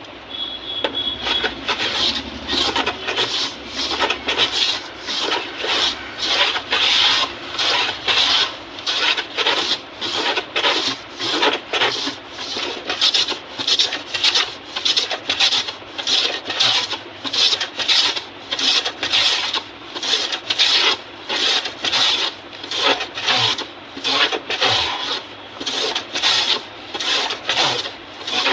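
Hand plane (randa) shaving the teak wood of a harmonium reed board in repeated scraping strokes at an even pace, levelling the surface where cracks were filled with glue.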